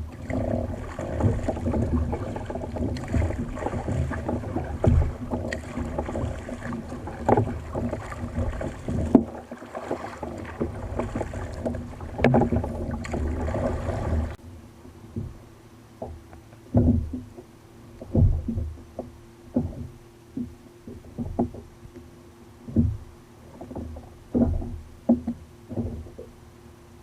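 Water splashing and sloshing around a fishing kayak at sea, with knocks against the hull. About halfway it cuts suddenly to a quieter run of separate splashes about every second and a half, like paddle strokes.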